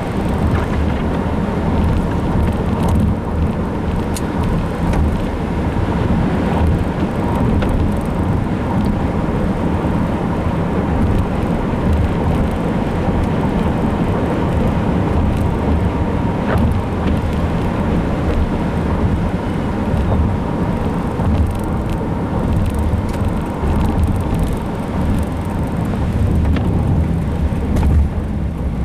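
Steady low rumble of a vehicle being driven, engine and road noise, with no break.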